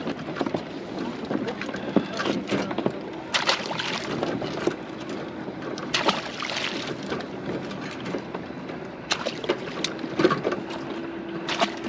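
Knocks and clatter of a crab trap and crabs being handled aboard a kayak, five or so sharp knocks spread over a steady rush of wind on the microphone.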